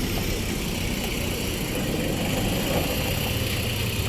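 A vehicle engine idling steadily, a low hum.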